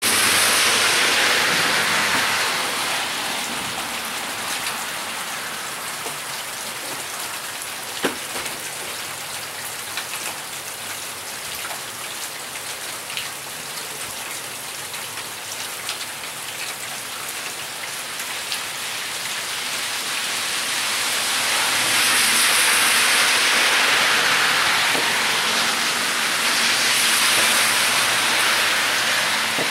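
Heavy rain falling steadily on pavement and standing water, a continuous hiss. Vehicle tyres swish through the wet road as cars pass, swelling louder at the start and twice near the end. One sharp tap about eight seconds in.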